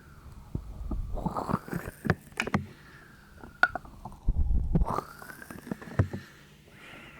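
Fingers tapping and rubbing right on a 3Dio binaural microphone's ears: scattered sharp taps mixed with swells of close, muffled rubbing, the strongest about a second in and again around four and a half seconds.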